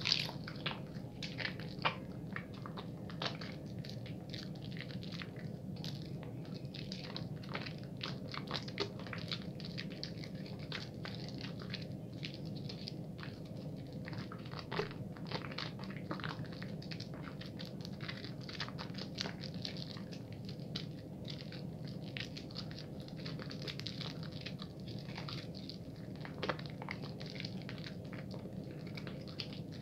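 Bar soap being lathered at a fairly quick pace in wet hands: a dense, irregular run of small wet squishes and crackles.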